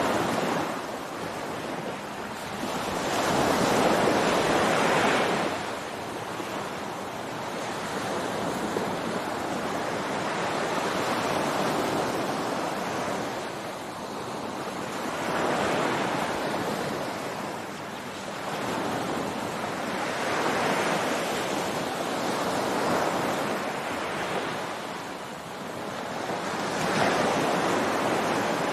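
Ocean waves breaking on a beach, the surf swelling and ebbing in repeated surges every few seconds, with some wind on the microphone.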